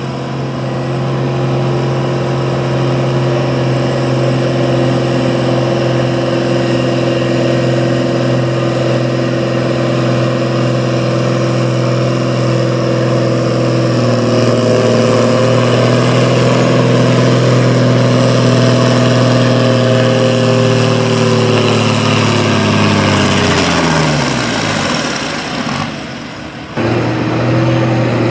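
Pulling farm tractor's engine running hard at steady high revs under load. The pitch lifts a little about halfway, then falls away steeply near the end as the engine winds down, before a sudden return to full revs.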